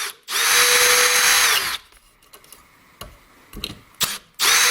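Milwaukee M18 brushless cordless drill running in reverse to back screws out of wood, in two runs. The first is a steady whine of about a second and a half that winds down as the trigger is let go. A few light clicks follow, then the second run starts near the end.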